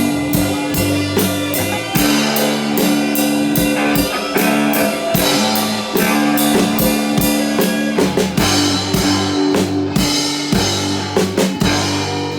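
Band music: a drum kit keeps a steady beat of about four sharp strokes a second over bass drum hits, with held guitar and bass notes.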